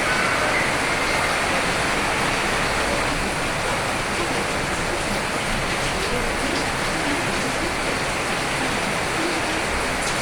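Steady rain, an even hiss of falling water.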